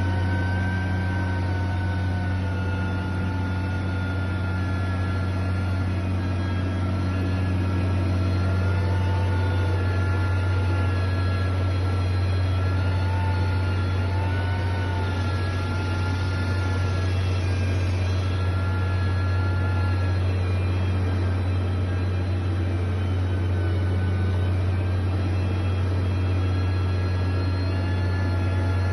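Heavy construction machinery's diesel engine running steadily with a deep, even hum and thin whines above it that waver slowly in pitch.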